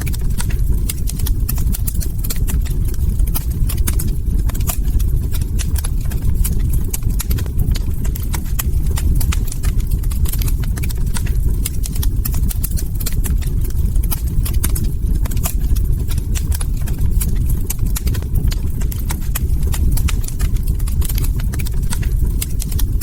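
Log fire crackling, with many sharp, irregular pops and snaps over a steady low rumble.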